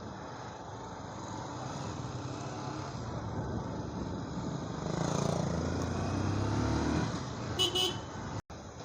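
Street traffic with motor vehicle engines running, one engine louder for a couple of seconds about five seconds in. The sound drops out briefly near the end.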